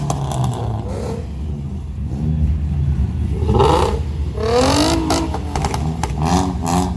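A car engine being revved in place: the pitch climbs in a longer rev about halfway through, then in several short, quick blips near the end.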